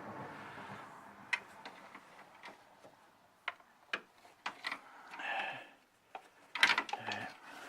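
Irregular light clicks and taps from tools and a spark plug being handled during a plug inspection, with a denser cluster of clicks near the end.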